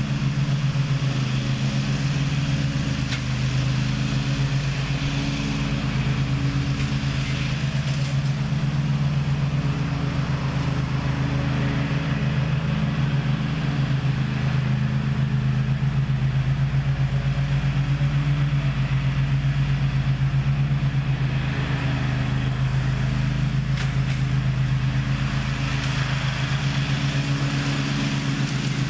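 Zero-turn riding mower's engine running steadily at constant throttle.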